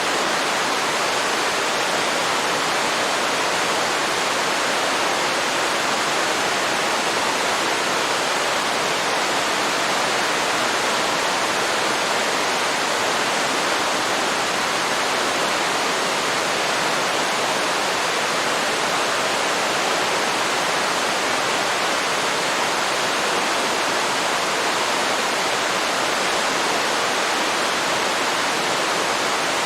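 Waterfall rushing steadily into a river, a constant even wash of falling water.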